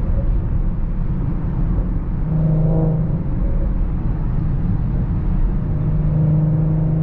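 Inside the cabin, a 2017 Audi SQ5's 3.0-litre V6 with AWE non-resonated downpipes and Touring catback exhaust cruises on the highway at around 3,500 rpm in fourth gear. It gives a steady exhaust drone over road noise, swelling briefly about two and a half seconds in and again near the end.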